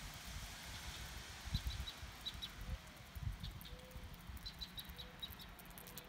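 A small bird chirping a run of short, high, evenly spaced notes, then a second run a couple of seconds later, over low rumbling thumps of wind buffeting the microphone.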